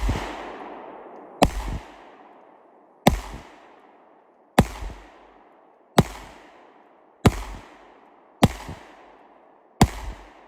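Rock Island 1911 pistol in .22 TCM firing a steady string of single shots, about one every second and a half, seven in all. Each sharp crack is followed a moment later by a fainter second report and a decaying echo.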